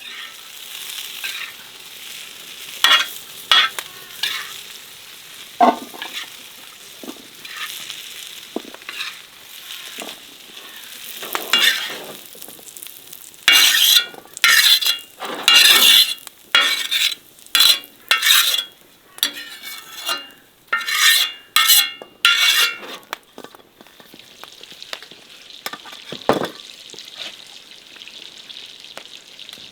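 Food sizzling in hot oil in a pot, stirred with a utensil that scrapes and clinks against the pot. The strokes are scattered at first and come about once or twice a second through the middle, over a steady sizzle.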